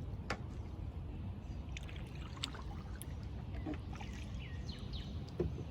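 Kayak paddling on calm river water: paddle strokes with water dripping and trickling off the blades and small splashes and taps, over a steady low rumble.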